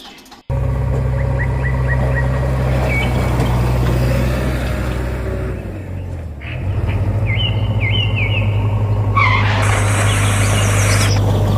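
Vehicle engine running with a steady low drone that starts abruptly. About six seconds in it gives way to a different, slightly higher engine drone with short chirps above it, and a loud hiss comes in near the end.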